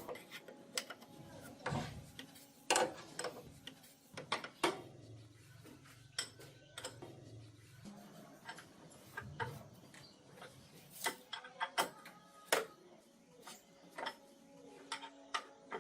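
Irregular sharp metallic clicks and knocks of hand tools and metal parts being handled during engine repair work, with a faint low drone for a few seconds in the middle.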